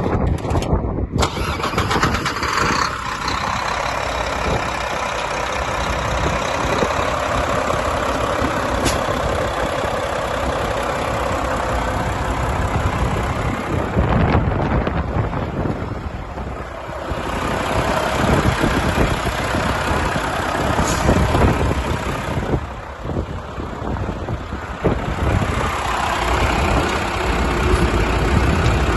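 Mack truck's engine starting about a second in, then running, its sound easing off briefly twice before picking up again.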